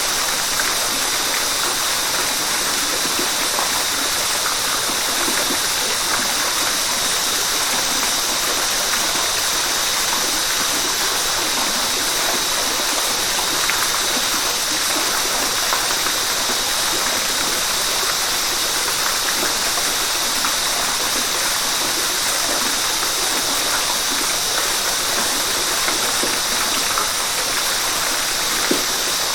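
River water rushing and splashing steadily over rocks, a constant hiss without let-up.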